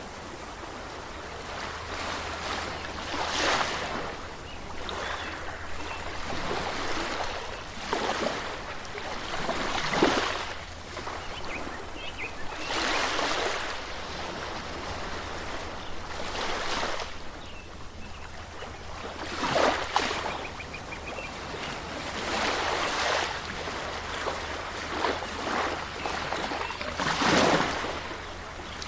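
Waves washing onto a shore, each one swelling and falling away every few seconds, some breaking more sharply than others.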